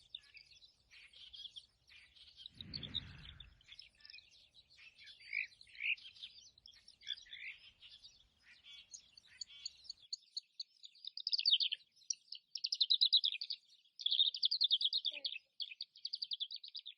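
Small songbirds chirping and singing, with quick chirps early on and loud, rapid trills of fast-repeated notes from about two-thirds of the way through. A brief low rumble about 3 seconds in.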